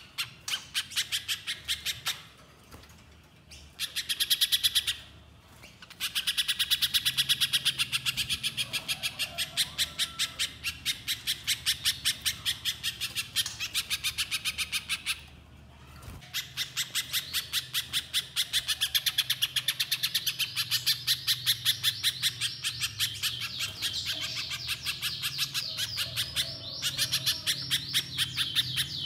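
Spiderhunter calling in long runs of rapid, sharp, evenly repeated notes, several a second, broken by short pauses.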